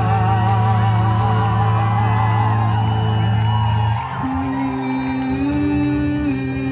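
Live acoustic band music: a male voice holds a note with vibrato over a sustained chord. About four seconds in the chord changes and the instruments play on.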